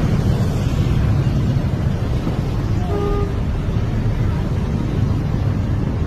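Steady low rumble of road traffic, with one short tone about three seconds in.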